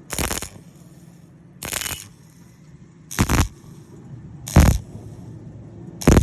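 Electric arc welding on thin galvanized square tube, done in short stitches: five brief bursts of arc crackle, each under half a second, about one every second and a half.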